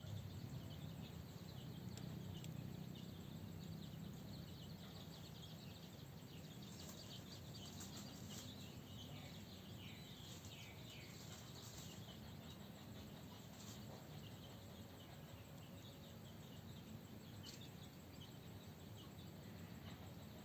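Faint outdoor ambience: a steady low rumble with scattered faint, short, high peeps, some falling in pitch and mostly bunched toward the middle, typical of chicken chicks peeping.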